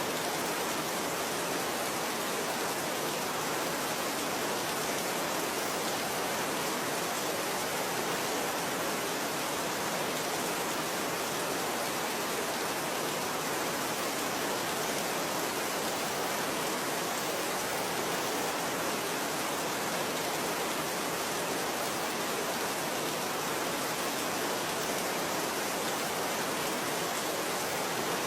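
Steady rain falling, a constant even hiss with no distinct drops or thunder.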